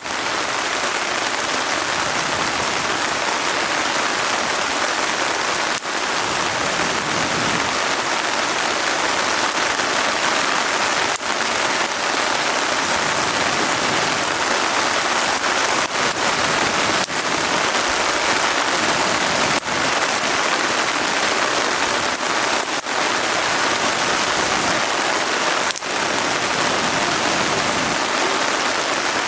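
Steady rain falling, a dense, even hiss of drops on surfaces.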